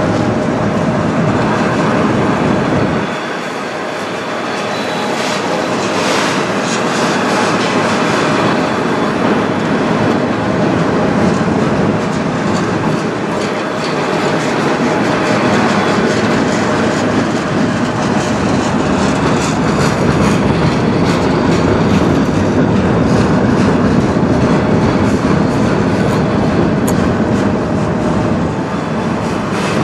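Freight train of autorack cars rolling past, steel wheels rumbling on the rails and clacking over rail joints in a steady run of clicks.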